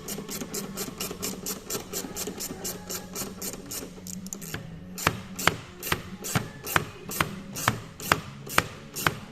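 Hand ratchet wrench clicking in quick even strokes, about five clicks a second. From about five seconds in the clicks come slower and louder, about two a second.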